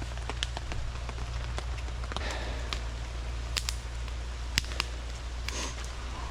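Rain dripping: scattered, irregular sharp ticks of drops over a steady low rumble.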